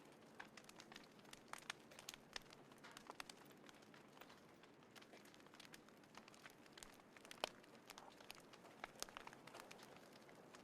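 Small wood fire crackling in a folding fire pit: irregular faint sharp snaps and pops, a few louder ones, over a soft hiss.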